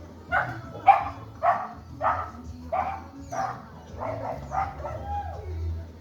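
A dog barking repeatedly, about nine barks at roughly two a second, the last one trailing off.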